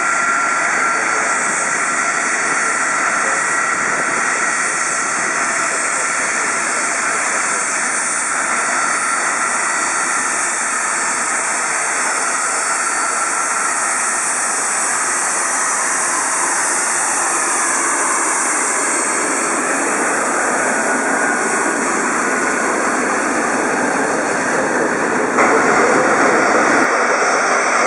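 Jet airliner engines running with a steady high turbine whine over a broad rush of noise, getting louder a few seconds before the end.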